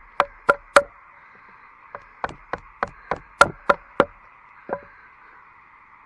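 Knife being batoned through wood with a wooden baton: sharp wooden knocks, three quick strikes, a short pause, then a run of about eight strikes at roughly three a second and one more after.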